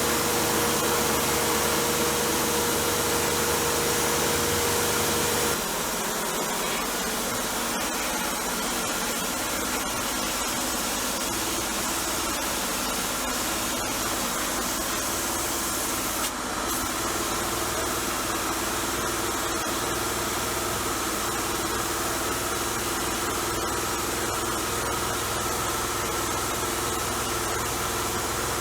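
A motor-driven tool running steadily with a constant hiss. About five and a half seconds in, its hum drops and a steady tone stops, then it carries on evenly.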